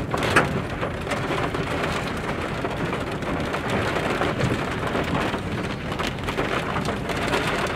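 Rain striking the car's windshield and body, heard from inside the car: a steady hiss of many small drop ticks.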